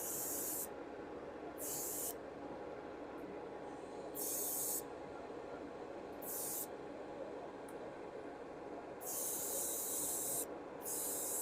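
Airbrush spraying thinned paint in six short bursts of high air hiss, the longest about a second and a half near the end, over the steady hum of an airbrush compressor running.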